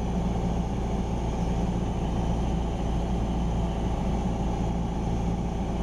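Cessna 172R Skyhawk II's four-cylinder Lycoming IO-360 engine and propeller droning steadily in cruise flight, heard inside the cockpit.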